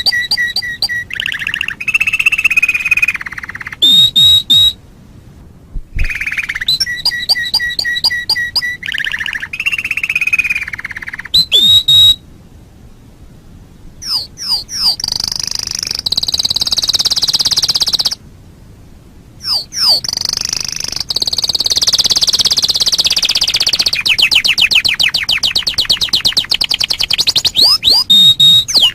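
Canary singing long, varied song phrases: rapid trills, fast downward-sweeping notes and buzzy rolls, broken by three short pauses.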